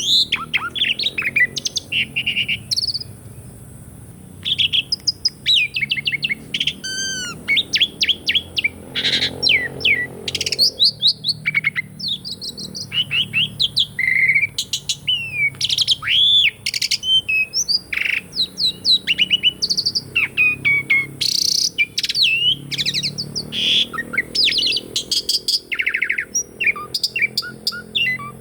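Asian pied starling (jalak suren) singing a long, varied song of rapid whistles, chirps and sweeping notes, with a short pause about three seconds in.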